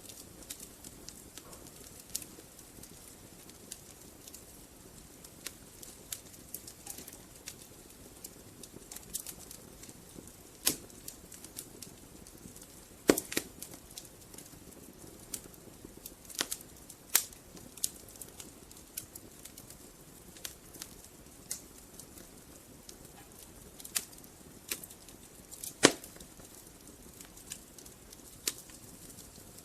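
Wood fire burning in a fireplace: a soft steady hiss under frequent sharp, irregular crackles and pops. The two loudest pops come about halfway through and near the end.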